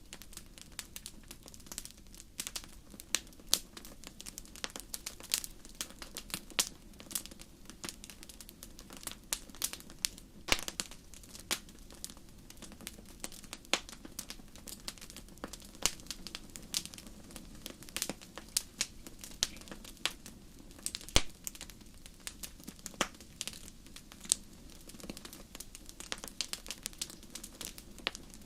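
Campfire burning: a dense, irregular run of sharp crackles and pops from the burning wood over a low, steady rush of flame.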